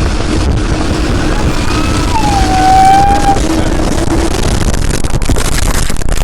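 Loud, continuous rumble of strong wind and rain buffeting the microphone. About two seconds in, a brief high wail slides down in pitch and holds for about a second.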